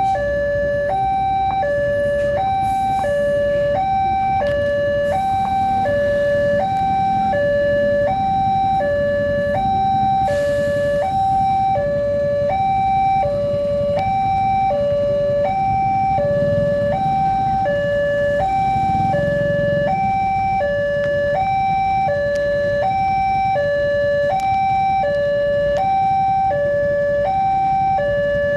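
Railway level crossing warning alarm sounding its electronic two-tone signal, steadily alternating a higher and a lower note, each about half a second long, over a low rumble.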